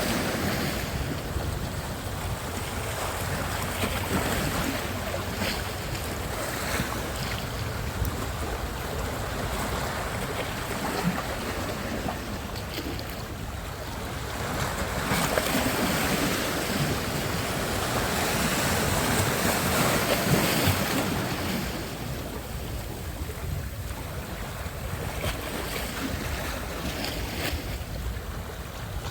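Sea surf: waves breaking and washing in, the rush swelling louder about halfway through and easing off again.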